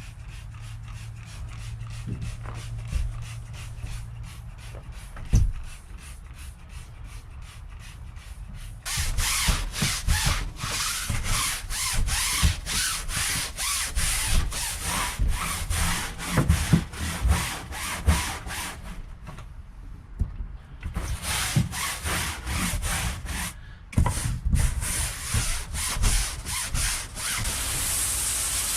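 Stiff deck scrub brush scrubbing a boat's marine mat flooring in rapid, even back-and-forth strokes. The scrubbing gets louder about nine seconds in and stops briefly twice near the two-thirds mark.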